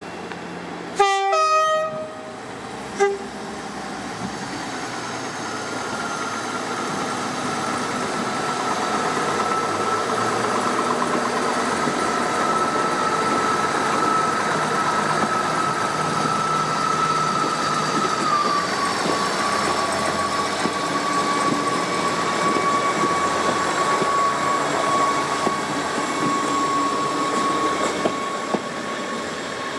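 A train horn sounds a loud two-note blast about a second in, with a short toot after it. Then the train's running noise builds and holds, with a steady whine that drops a step in pitch over halfway through.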